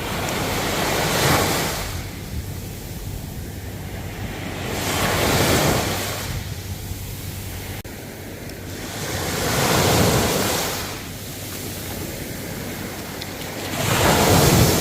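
Ocean waves breaking and washing ashore, four surges about every four to five seconds over a steady surf hiss, with some wind on the microphone.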